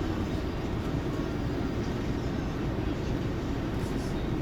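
Scania coach running steadily, a low, even engine and road rumble.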